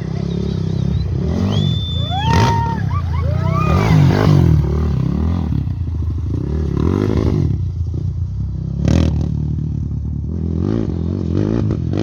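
Motorcycle engine noise running steadily, with a cluster of short rising-and-falling whistles about two to four seconds in.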